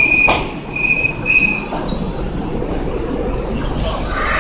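Kintetsu electric train rolling past the platform, its wheels giving short high-pitched squeals twice in the first second and a half over a steady running rumble. Near the end a sudden hiss with several high tones sets in.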